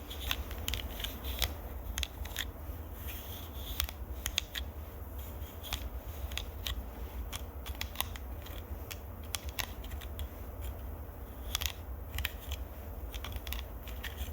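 Close-miked ASMR trigger sounds: a run of crisp, irregular clicks and small taps over a steady low rumble.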